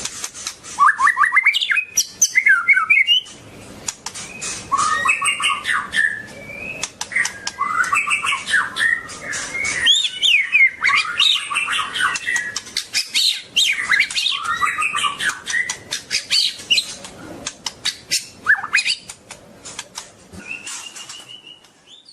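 White-rumped shama singing a fast, varied song of whistled phrases mixed with rapid harsh clicking notes, tapering off near the end.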